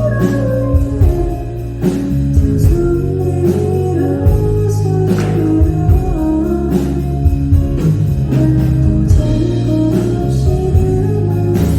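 Live band music: guitar and bass holding chords over a steady drum beat.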